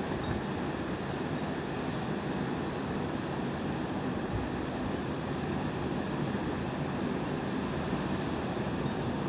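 Steady rushing background noise with no thunderclaps, and a faint, even high chirp about two to three times a second, typical of a cricket.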